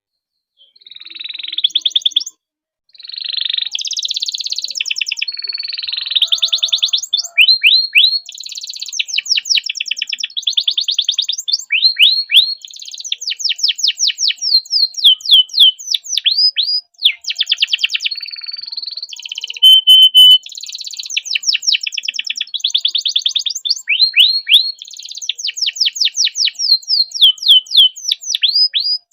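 Domestic canary singing a long, loud song made of fast rolling trills of repeated, rapidly falling high notes. It breaks off briefly twice and holds one short steady whistle about two-thirds of the way through.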